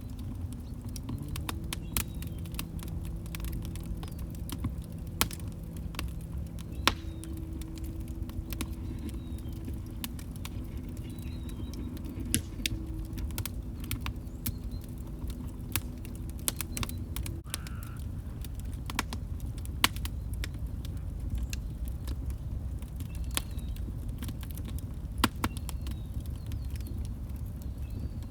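Wood fire burning in a fireplace: a low steady rumble of the flames with irregular sharp crackles and pops from the logs. A low steady hum runs under it until it stops suddenly about 17 seconds in.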